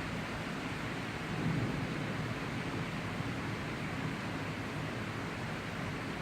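Steady hiss of a tropical thunderstorm's rain, with a low rumble of distant thunder swelling briefly about a second in.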